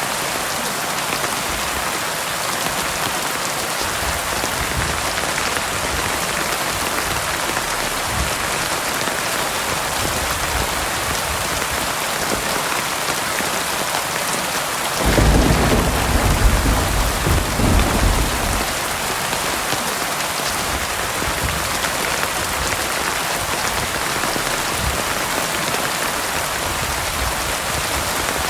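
Heavy rain falling steadily, with a clap of thunder about halfway through that rumbles for three or four seconds and fades.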